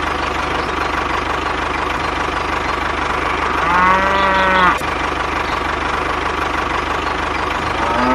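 A cow moos once, a call that rises and falls about four seconds in, and a second moo begins near the end. Beneath them is the steady running of a tractor engine.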